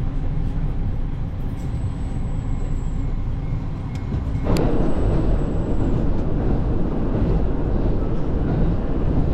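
Train running with a steady low rumble; a sharp click about four and a half seconds in, after which the noise grows louder and brighter.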